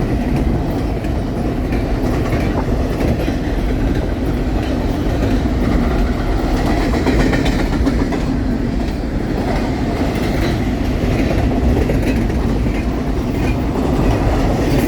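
BNSF intermodal freight train rolling past at close range: a steady rumble of steel wheels on the rails, with scattered clicks from the cars as they go by.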